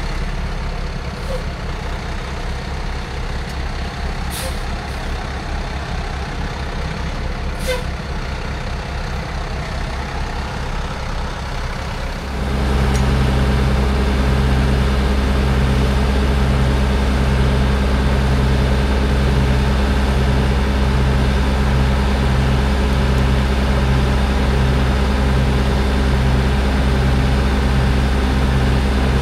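Cummins X15 diesel engine of an International HX620 triaxle dump truck running, growing louder and steadier about twelve seconds in as the truck heads out.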